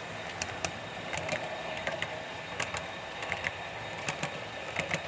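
HO scale model train running along the track, its wheels clicking irregularly over rail joints and switch points as it crosses over, over a steady running hum.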